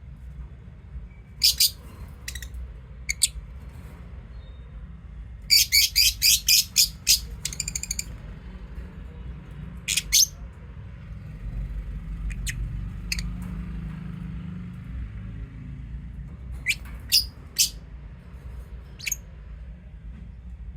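Lovebirds giving short, sharp, high chirps, mostly singly, with a quick run of about seven loud chirps about six seconds in that runs into a fast trill. A low steady rumble sits underneath throughout.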